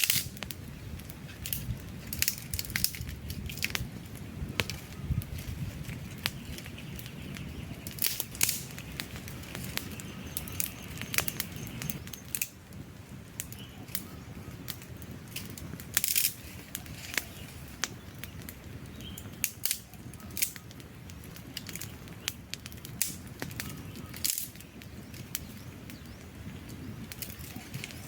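Wood campfire burning: irregular sharp crackles and pops of the logs over a low, steady rumble of the flames.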